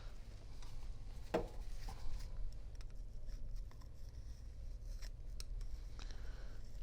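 Light handling of small parts while oiled O-rings are fitted: faint clicks and rubbing, with one brief squeak about a second and a half in, over a steady low hum.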